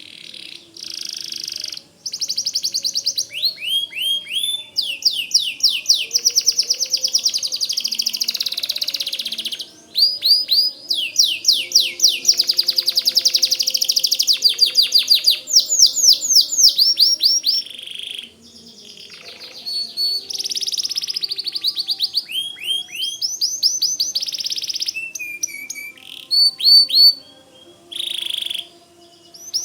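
White domestic canary singing: long, fast phrases of rapid trills and repeated sweeping notes, broken by a few short pauses.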